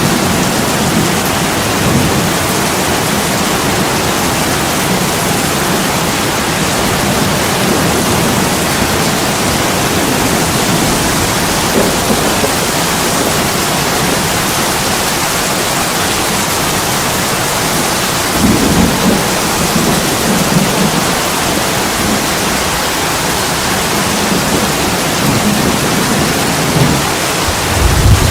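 Steady heavy rain on a window, a dense even hiss. Low rumbles of thunder swell up about two-thirds of the way through and again near the end.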